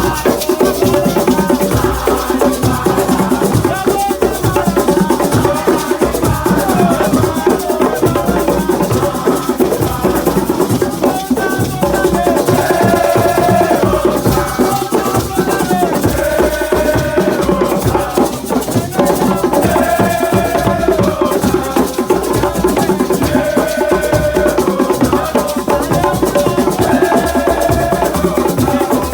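Live music from drums and shakers: a fast, steady percussion beat. From about halfway through, short held melodic phrases come back again and again over the beat.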